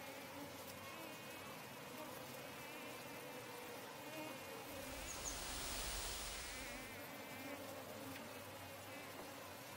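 Faint, steady buzzing of flying insects in woodland. About five seconds in, a louder swell of rustling noise lasts roughly two seconds.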